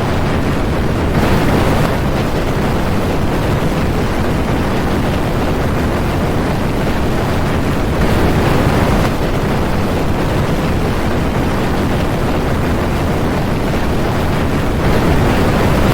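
Typhoon storm noise: strong wind buffeting the microphone over rushing surf, a dense, steady, loud rush with small jumps in level a few times.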